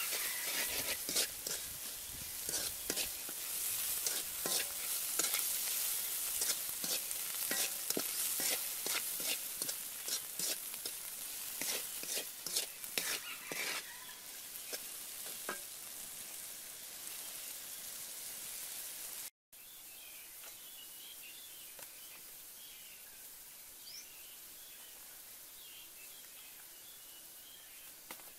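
Short worms sizzling in a metal wok as a wooden spatula stirs them, with frequent sharp clicks and scrapes of the spatula against the pan; the sizzle fades, and after a sudden cut about two-thirds of the way through there is a quieter outdoor background with faint bird chirps.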